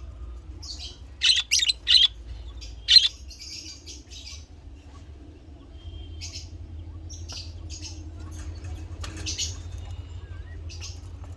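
Budgerigars chirping and squawking: a few loud, sharp calls in the first three seconds, then softer scattered chirping. A low steady hum runs underneath.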